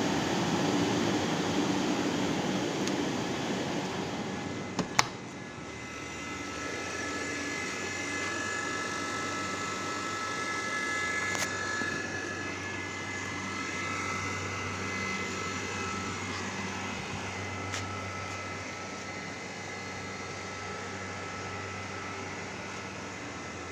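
Refrigeration machinery running steadily: the hum and fan noise of a cold-room cooling unit, with a low drone and a faint high whine. A sharp click about five seconds in, after which the noise settles lower and steadier.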